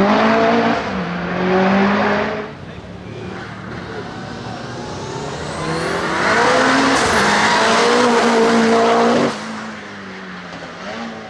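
Mitsubishi Evo 8 RS hillclimb car's Eggenberger 2-litre turbocharged four-cylinder at full throttle, the pitch climbing and dropping as it shifts through the gears. It is loud at first, fades, comes back loud with rising revs about six seconds in, then drops off sharply about nine seconds in.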